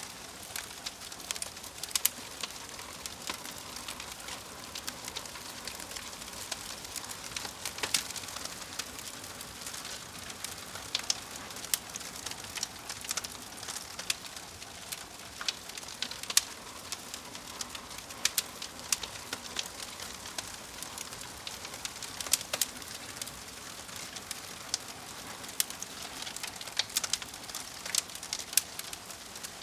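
Wood fire burning in a fireplace: a steady soft hiss with irregular crackles and sharp pops from the logs, a few louder snaps scattered through.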